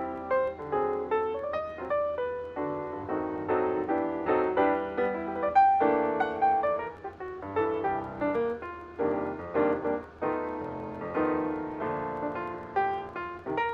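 Background piano music, a melody of quickly struck notes, with a faint steady low hum beneath it.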